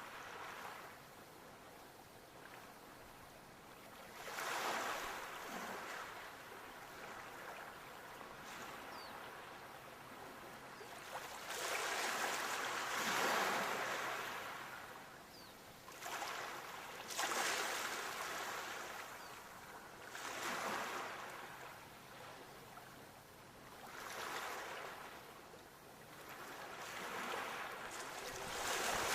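Sea waves washing in, one swell of surf after another every few seconds, each rising and falling away; the longest comes near the middle.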